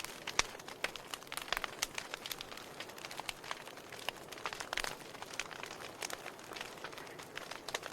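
Wood fire crackling: irregular sharp pops and snaps over a soft steady hiss, with a few louder pops about half a second in and around the middle.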